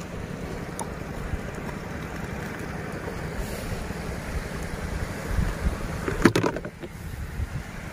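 Wind buffeting the microphone over the steady wash of the sea on a rocky shore, with a brief louder burst of noise about six seconds in.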